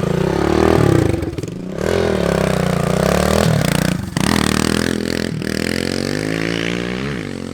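Dirt bike engine running and revving, its pitch rising and falling several times, with brief sharp breaks about four and five seconds in.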